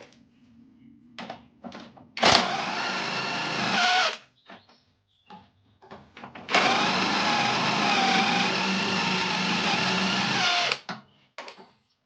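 A handheld power tool running in two bursts, about two seconds and then about four seconds, each starting and stopping sharply, with short clicks and knocks of handling between them.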